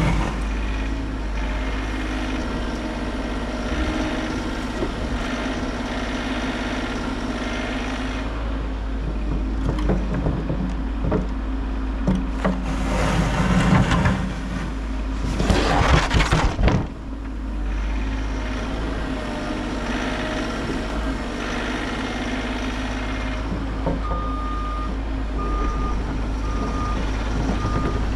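Diesel heavy-equipment engine running steadily while working snow. Partway through comes a loud, rough stretch of about four seconds. Near the end a machine's reverse/travel alarm starts beeping, about one and a half beeps a second.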